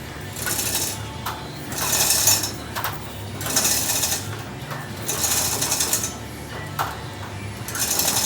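Chain hoist (chain fall) being worked by hand in repeated pulls, its chain and ratchet rattling in five bursts about a second and a half apart, over a steady low hum.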